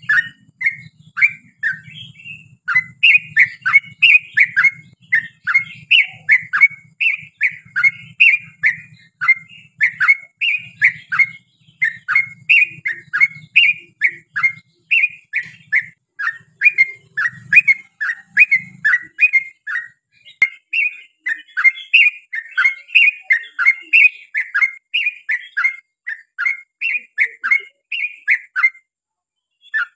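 Yellow-vented bulbul (trucukan) singing a long, unbroken string of quick, bubbly notes, several a second, pausing briefly near the end. A faint low hum lies under the first two-thirds.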